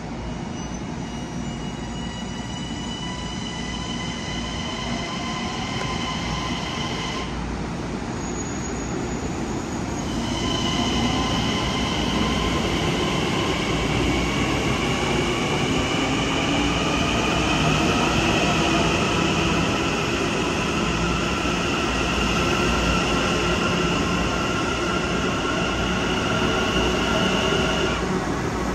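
Long Island Rail Road electric multiple-unit train moving on the station tracks, its wheels squealing in several high steady tones over a running rumble. It gets louder after about ten seconds, with some tones slowly rising in pitch.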